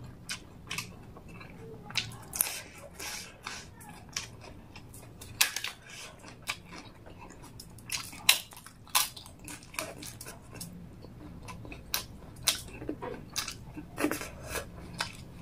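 Close-miked eating: chewing mouthfuls of rice and chicken gravy, with sharp irregular crunches as a crisp chilli papad is bitten and chewed, the loudest crunches about eight seconds in.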